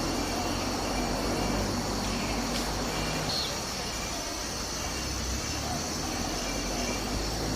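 Steady chorus of insects, crickets or cicadas, with a continuous high buzzing over a low background hum.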